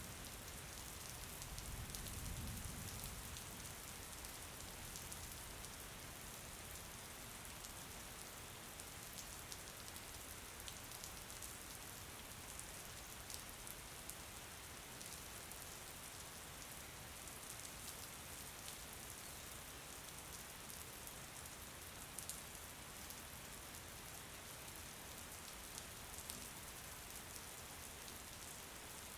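Steady rain falling, an even hiss with many individual drops ticking through it. A brief low rumble comes about two seconds in.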